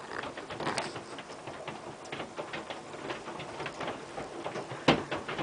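Large hailstones, some the size of golf balls, pelting down hard. It is a dense, irregular clatter of impacts, with one louder hit near the end.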